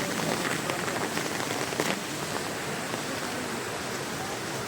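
Heavy rain with big drops falling steadily, many separate drop hits standing out from the even hiss.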